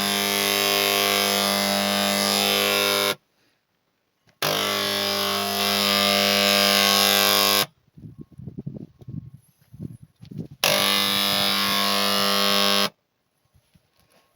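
A mains-powered electric tool running with a loud, steady buzz in three bursts of about three seconds each, switched on and off abruptly, with quieter clatter of handling between the bursts.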